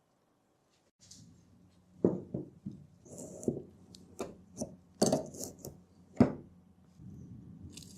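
Hand work on a mini dirt bike's front fork: a series of sharp knocks and clinks of tools and metal parts, the loudest about two, five and six seconds in, over a faint steady hum.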